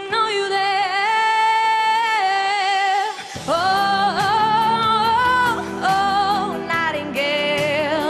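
Singing: a high voice holds long notes without clear words, and a low backing accompaniment comes in about three seconds in.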